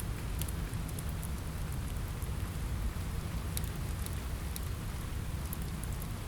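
Steady rain falling on a window, with a constant low rumble beneath it and the scattered sharp pops of a crackling wood fire.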